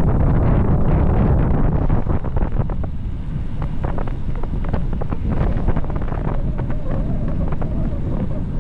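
Loud wind buffeting the microphone of a bicycle descending at high speed, over a low rush of tyre and road noise. Through the middle there is a scatter of short clicks and rattles, and a faint steady tone comes in near the end.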